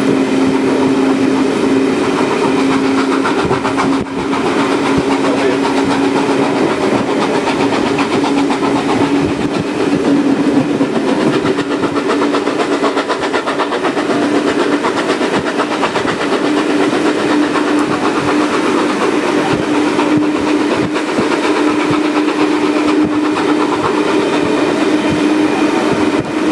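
A moving passenger train heard from aboard: wheels clattering rhythmically over the rails and a steady hum that rises slightly in pitch as it goes.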